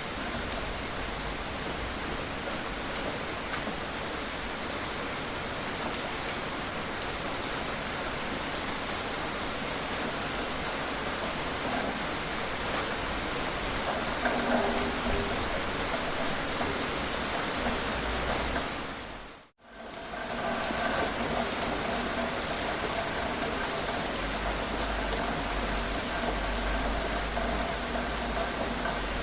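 Steady gentle rain falling, a continuous hiss of many drops. About two-thirds of the way through it fades out to silence for a moment and comes straight back, with faint steady tones in it afterwards.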